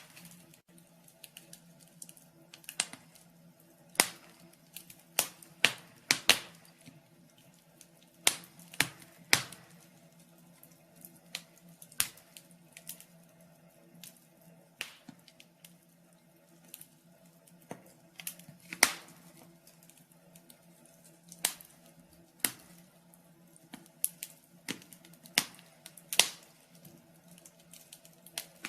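Wood fire crackling in a fireplace: irregular sharp pops and snaps of burning logs, a few every couple of seconds, over a faint steady hum.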